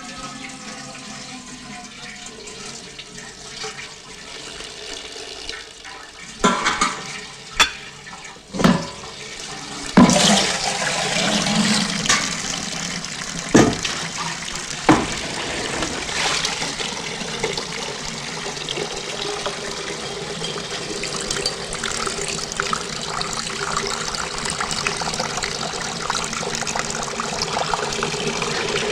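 Water running and splashing steadily, starting about a third of the way in, with a handful of sharp knocks and clanks before and just after it starts.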